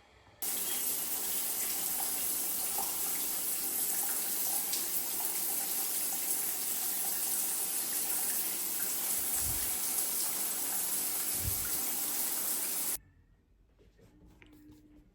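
Shower water running in a steady, loud hiss that starts suddenly about half a second in and cuts off sharply near the end.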